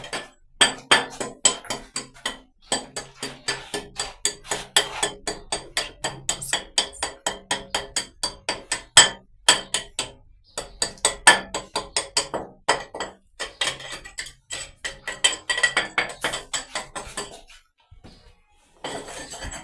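Hammer striking a chisel in fast, repeated blows, about four a second, with a few short pauses and a longer break near the end.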